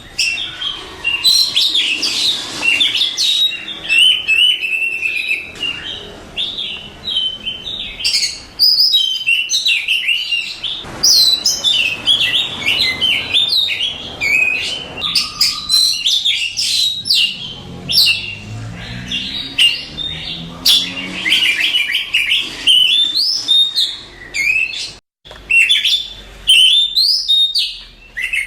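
Oriental magpie-robin (kacer) singing a long, varied run of rapid chirps, whistles and trills, as used for training other songbirds. The song stops for a split second about three-quarters of the way through.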